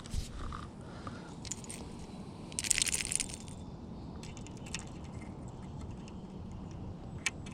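Small clicks and rattles of fishing tackle being handled in a boat, with a louder rustle about three seconds in, over a low steady background noise.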